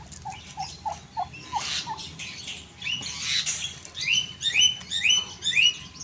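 Birds chirping. A run of short, lower notes comes about three a second over the first two seconds, then quick high chirps, several a second, fill the second half, with a couple of brief rustling noises between.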